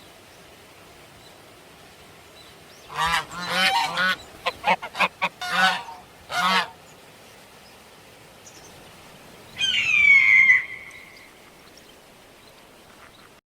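Frogs calling: a run of quick, pitched croaks lasting a few seconds, then a single call that falls in pitch about ten seconds in.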